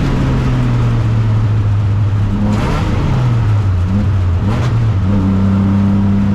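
Alfa Romeo 156's 3.0 V6 race engine running steadily at speed, its pitch stepping a few times around the middle.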